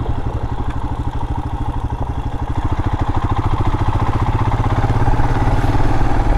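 Royal Enfield Himalayan's single-cylinder engine running and pulling away, getting louder about halfway through as it picks up revs.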